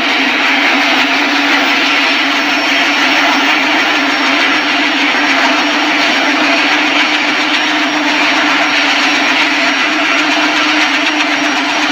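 Helicopter engine and rotors running steadily at close range, loud and unchanging, with a steady hum under a broad rushing noise.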